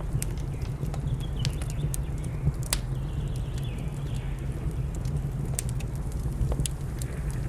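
Wood fire crackling, with irregular sharp pops over a steady low rumble. A faint bird call comes in about three seconds in.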